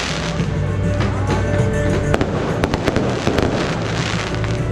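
Aerial fireworks bursting overhead, a string of sharp cracks and crackles from glittering shells, over loud music.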